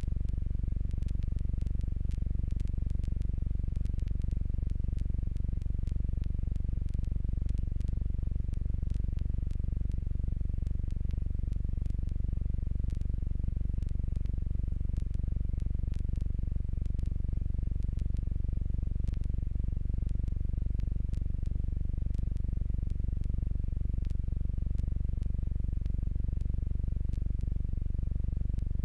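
Jabiru J120 light aircraft's four-cylinder engine and airframe heard from the cockpit as a steady, muffled low drone, with scattered faint clicks.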